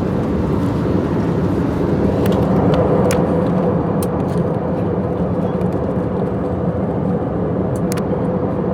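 Airliner cabin noise in flight: the steady rush of jet engines and airflow with a low hum, and a few faint ticks.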